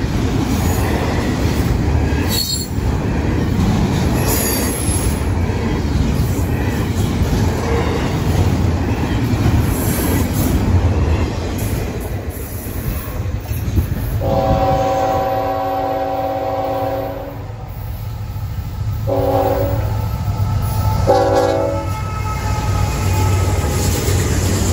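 Freight train running by with a steady heavy rumble. About two-thirds of the way through, a diesel locomotive's air horn sounds one long blast, then two short ones.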